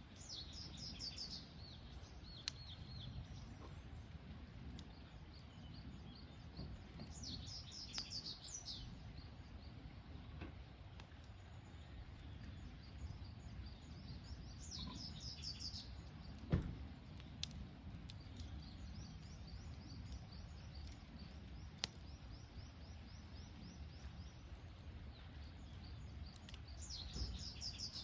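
Campfire crackling steadily, with a few sharp pops, the loudest about halfway through. Insects call in short bursts of rapid high chirps every several seconds, with a fainter continuous chirping in the later part.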